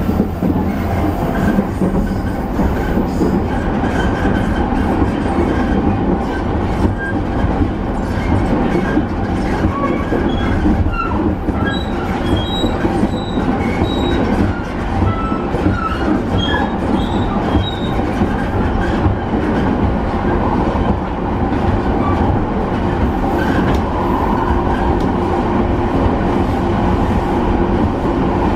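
Running noise inside a JR East E217 series commuter car (motor car MoHa E216-1047, Mitsubishi IGBT-VVVF drive): a steady rumble of wheels on rail with light rail-joint clicks. Short squeals come from the wheels from about ten to eighteen seconds in.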